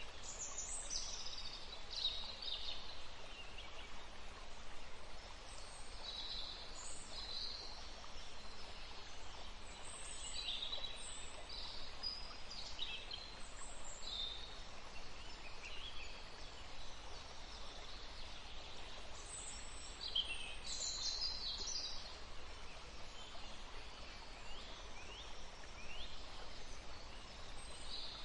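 Forest stream flowing with a steady rush, and songbirds singing over it in short chirps and trills scattered throughout.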